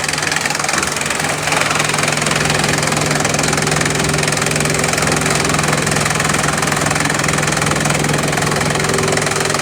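Bamboo-crushing machine running steadily: a constant low engine drone under a dense wash of crushing noise.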